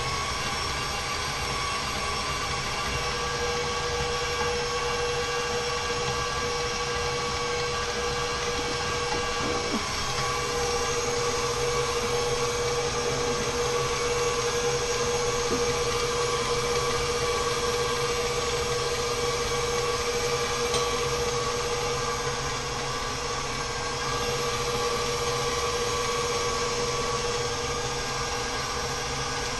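Large electric stand mixer running steadily at medium-high speed with a motor whine, creaming butter and sugar in its bowl.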